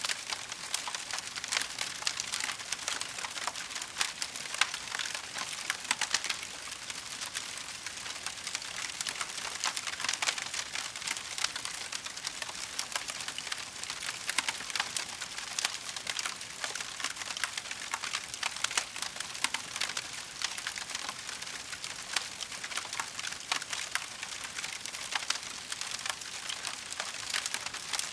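Wood fire crackling: a steady stream of small, sharp pops and snaps over a soft hiss.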